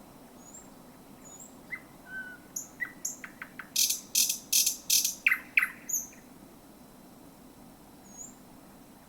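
Thrush nightingale singing one song phrase close up: a few thin whistled notes, a quick run of dry clicks, then four loud harsh rattling strokes about three a second, closing with two short falling notes. Faint high chirps come before and after the phrase.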